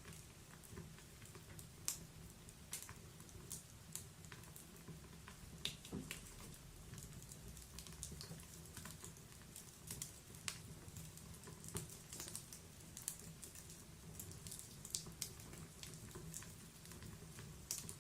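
Log fire crackling in a wood-burning fireplace: scattered sharp snaps and pops at irregular times over a faint, low, steady rumble.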